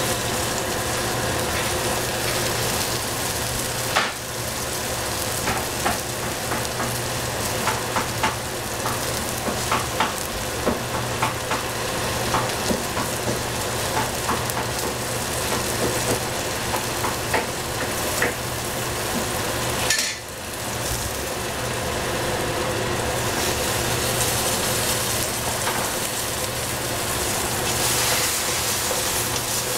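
Eggplant and capsicum sizzling as they fry in a pan, with a cooking utensil clicking and scraping against the pan in irregular strokes through the first half as the food is stirred. The sizzle drops away briefly about two-thirds through, then comes back.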